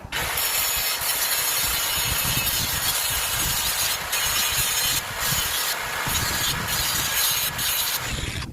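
Power grinder grinding down a battery-post shim: a steady, loud, hissing grind that starts abruptly and cuts off near the end, with a few brief breaks in the second half.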